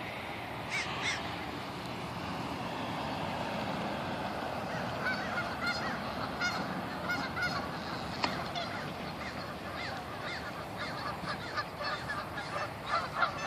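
A flock of geese honking: two short calls about a second in, then from about five seconds in many short overlapping honks, several a second, over a steady background hiss.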